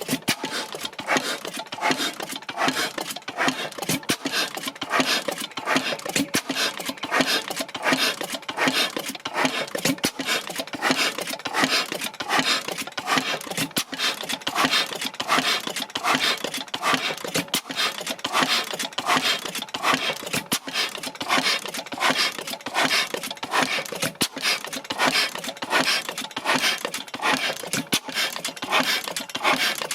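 Blackstone 3hp single-cylinder oil engine running on test, a steady rhythmic mechanical clatter with regular repeating knocks.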